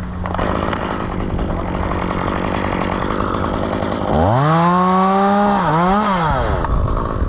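Chainsaw running low and rough, then revved hard about four seconds in and held at high speed. Its pitch dips briefly once, then it drops back off throttle near the end.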